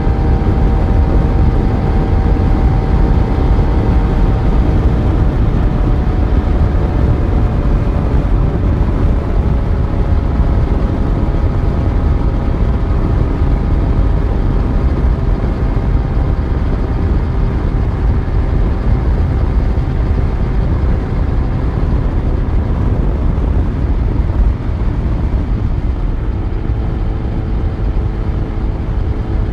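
Yamaha FZ1's inline-four engine running on the move, under a steady rumble of wind and road noise. The engine note eases down slowly, with a brief dip about 25 seconds in.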